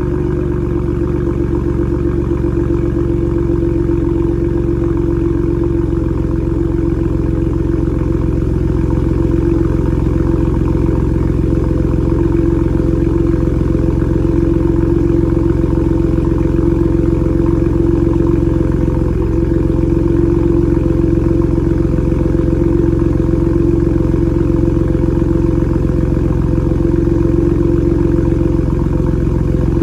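Ford 3.5 EcoBoost twin-turbo V6 idling steadily through a Borla ATAK exhaust shortly after a cold start, with no revs. The exhaust note holds an even, deep drone.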